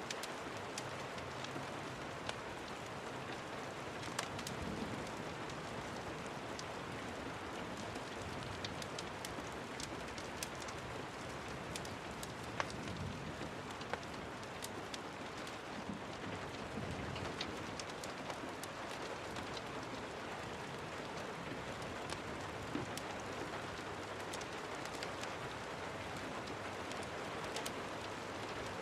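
Steady rain falling, with scattered sharp ticks and crackles through it.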